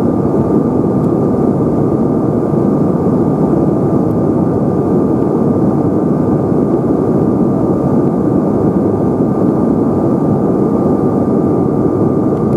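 Steady cabin noise of a Bombardier CRJ-900's rear-mounted turbofan engines heard from a seat near the back, a constant rush with a thin steady whine above it.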